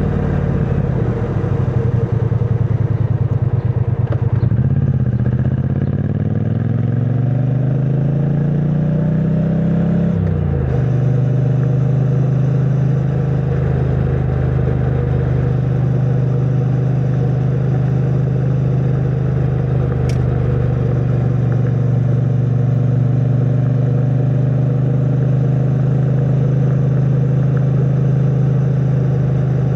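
2022 Triumph Bonneville T100's 900 cc parallel-twin engine, on its stock exhaust, running under way. The revs ease off at first, then climb steadily for about six seconds. They drop sharply at a gear change about ten seconds in, and the engine then holds a steady cruising note.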